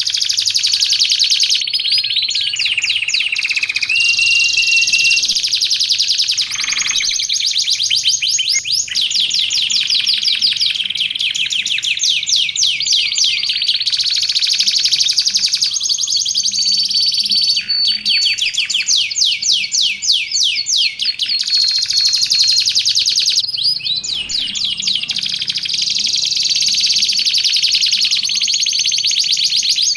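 Domestic canary in full song, singing continuously in long rapid trills. Now and then it holds a clear whistled note, one about four seconds in and a higher one around the middle.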